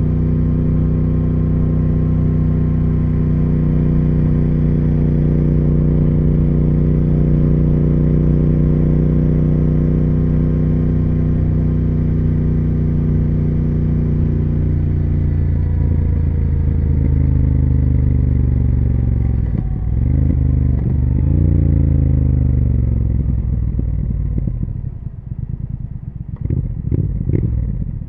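Triumph Speed Twin 1200's parallel-twin engine and exhaust, first holding a steady note at cruising speed. The bike then slows off the throttle, its note falling in two stretches with a gear change between them. Near the end it settles to a low, uneven beat at low revs, with a few sharp clacks.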